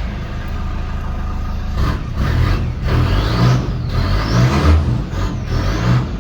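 Toyota KZJ95 Land Cruiser Prado's 1KZ-TE turbodiesel running loud through a new 3-inch turbo-back exhaust, with a deep pulsing rumble and a turbo whistle that rises several times as the engine is given throttle.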